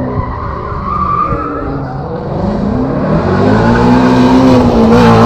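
Ford Mustang doing a burnout: its engine revs up and holds high in the last few seconds over a steady squeal of spinning tyres, wearing the tread off the rear tyres.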